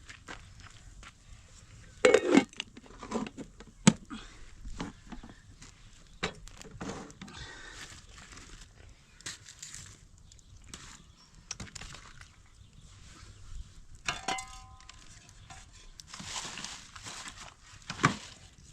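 Scattered clinks, knocks and crinkling of things being handled, typical of cookware and packaging in meal preparation, with a loud knock about two seconds in.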